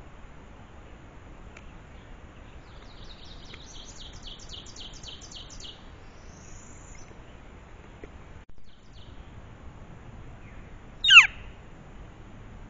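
Birds calling over a steady outdoor hiss: a quick run of high, evenly spaced notes about three seconds in, then, near the end, one much louder, sharp call that sweeps steeply down in pitch.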